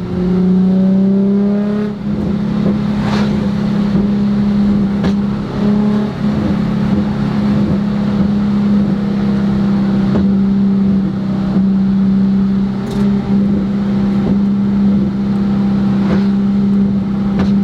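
Nissan 350Z's VQ35HR V6 running through a full titanium Tomei exhaust. The engine speed rises over the first two seconds and is then held steady, with a few sharp exhaust pops scattered through it.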